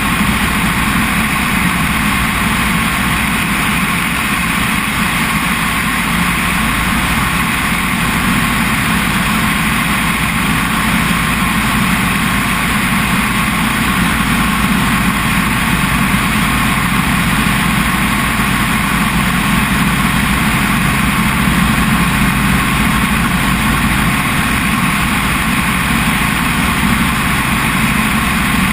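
Helicopter engine and rotor noise heard from on board, a loud steady drone that does not change.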